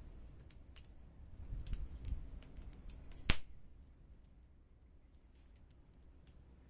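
Wood fire crackling, with scattered small pops and one loud sharp crack about three seconds in.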